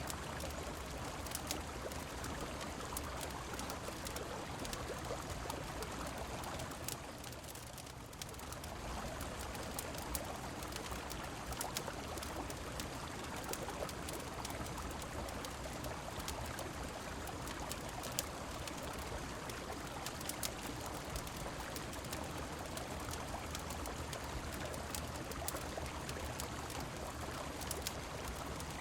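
Steady rush of a flowing river mixed with falling rain, with scattered sharp crackles from a wood fire. The water noise dips slightly for about a second around seven seconds in.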